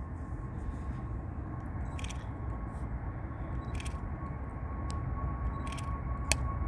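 Distant jet airliner engines: a low rumble with a steady high whine that grows louder near the end. Several sharp clicks are heard over it, the loudest shortly before the end.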